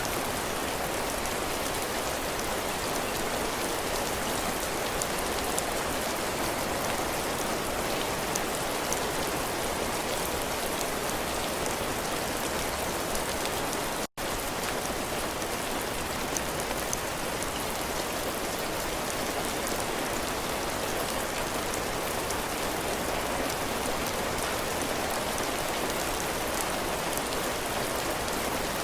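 Heavy rain falling on a cabin porch: a steady rushing hiss with scattered drops striking the roof and floor. The sound cuts out for an instant about halfway through.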